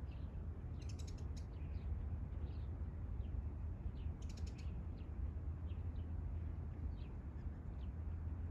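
Small birds chirping now and then, with two quick runs of high chirps, about a second in and about four seconds in, over a steady low rumble.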